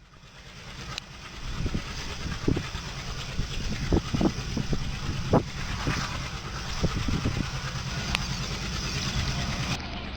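Steady low rumble of a running vehicle, fading in over the first second or two, with short faint higher-pitched blips scattered over it.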